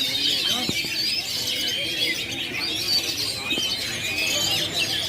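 Many caged songbirds singing at once in a dense, unbroken chorus of overlapping chirps, trills and whistles.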